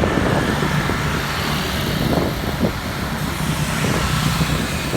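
Steady motor-vehicle and road noise heard from a moving motorbike, with engine rumble.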